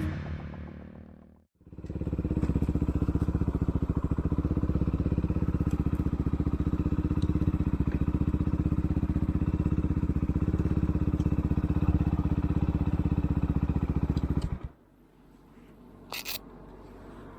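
Benelli Leoncino motorcycle engine idling steadily with an even pulse, then cutting off abruptly near the end. A couple of faint clicks follow.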